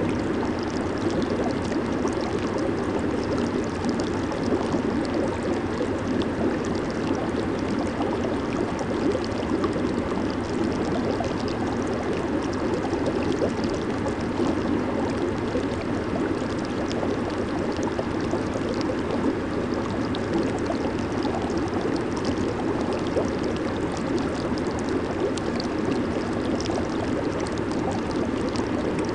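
Jacuzzi water churning and bubbling without a break, a steady low rush with fine bubbly crackle on top.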